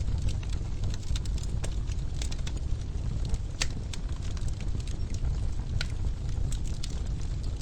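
Wood fire burning in a fireplace: a steady low rumble of flames with scattered sharp crackles and pops, two of them louder, a little after three and a half seconds and near six seconds.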